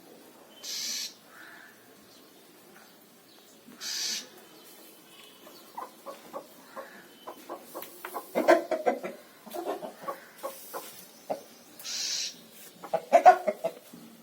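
Aseel chickens clucking in short bouts, loudest about eight and thirteen seconds in, with three brief hissy noises in between.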